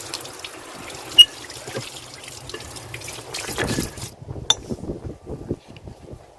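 Liquid pouring or trickling for about four seconds and stopping abruptly, with a sharp clink about a second in and another shortly after the pouring stops.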